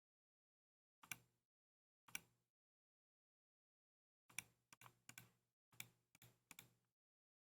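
Keystrokes on a Keychron K2 mechanical keyboard: two single presses about a second apart, then a quick run of about eight presses.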